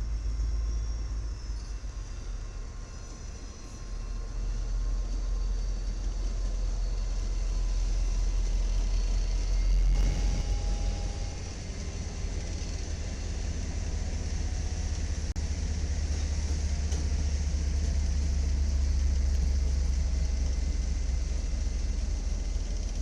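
Low, steady vehicle rumble that swells about four seconds in, peaks around ten seconds and builds again later, with a faint thin high tone above it.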